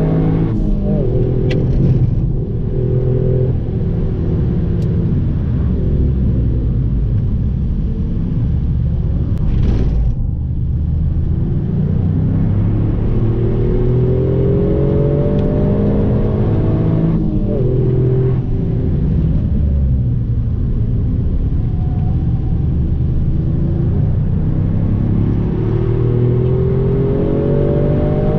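Toyota Yaris engine heard from inside the cabin, pulling hard several times: its note climbs steadily in pitch, then breaks off and drops back about every seven to ten seconds, over a constant low road and tyre rumble.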